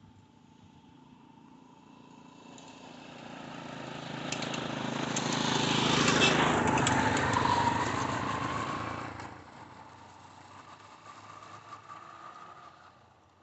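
A motor vehicle passing by: its engine and tyres grow louder, peak about halfway through, then fade away.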